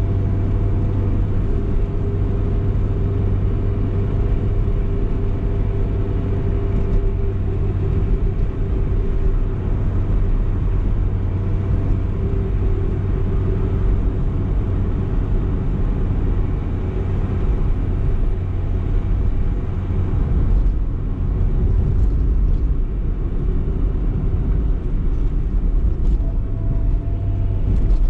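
BMW E30 318is's 1.8-litre four-cylinder engine running while the car is driven, with road and tyre noise. A steady low engine note holds at the start, wavers through the middle as the car drives on, and settles steady again near the end.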